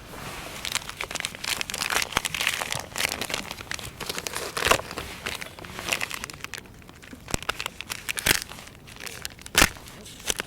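Crinkling and rustling of packaging being handled, with irregular crackles and a few sharper knocks about eight and nine and a half seconds in.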